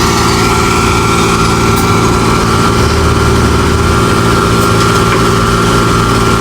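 Engine of heavy road-construction machinery running steadily at constant speed, its low hum carrying a thin steady whine above it.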